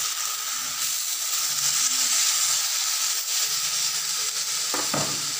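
Sliced onions and green chillies sizzling steadily as they fry in a hot metal wok with soy sauce just added. A few scraping stirs of the spoon against the pan come near the end.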